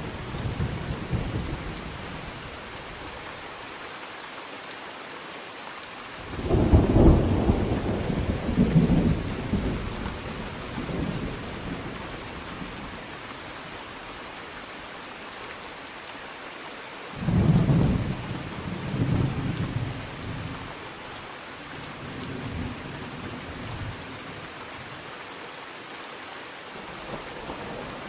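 Thunderstorm: steady rain hissing throughout, with rolling thunder. The tail of a rumble fades at the start, two loud rumbles break about six and seventeen seconds in and each rolls on for several seconds, and a fainter rumble follows a few seconds later.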